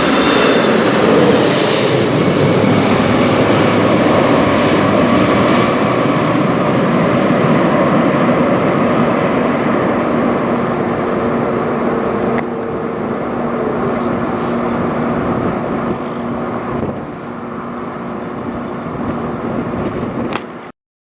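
Boeing 747-400 jet airliner passing overhead. The loud rush of its four engines carries a high whine that drops in pitch, then fades slowly to a steadier low hum as it moves away. The sound cuts off abruptly near the end.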